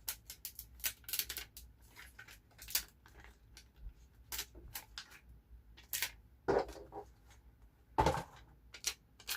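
Paper and sticker sheets being handled at a desk: a string of short crinkles and small clicks, with two louder rustles a little past the middle.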